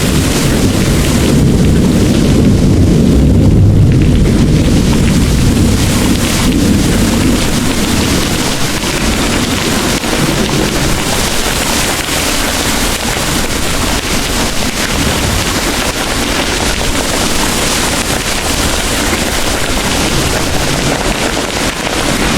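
Heavy rain pouring steadily, with a long low rumble of rolling thunder that swells during the first few seconds and dies away after about seven seconds, leaving the rain hiss alone.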